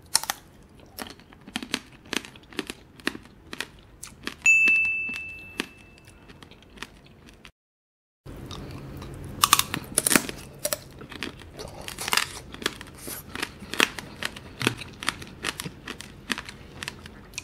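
Close-up crunching and chewing of candied blackberries, the hard sugar shell cracking in many sharp crackles between bites. About four seconds in, a brief high steady tone sounds, and a moment of dead silence follows a few seconds later before the chewing resumes.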